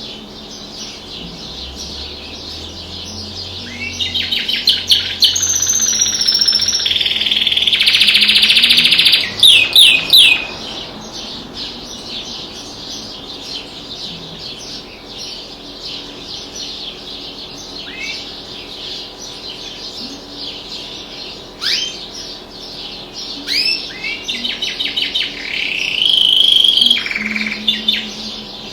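Domestic canary singing in bursts of rapid trills and rolls, loudest from about four to ten seconds in and again near the end, with quieter scattered chirps in between.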